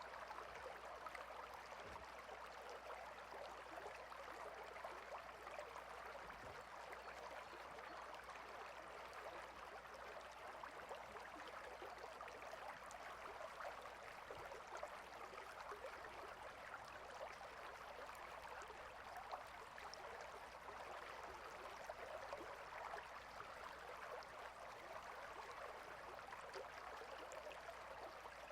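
Small water stream flowing steadily, a faint, even rushing with light splashes throughout.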